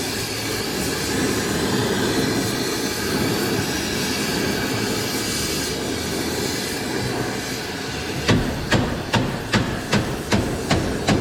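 Steady hissing rush of a gas cutting torch flame heating the steel exhaust header tube. About eight seconds in it gives way to regular hammer blows on the heated steel, roughly three a second, as the tube is beaten back into shape.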